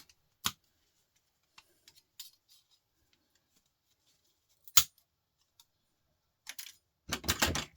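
Scattered clicks and knocks of record player parts being handled during a teardown, with a sharp knock about five seconds in and a burst of rattling clatter near the end.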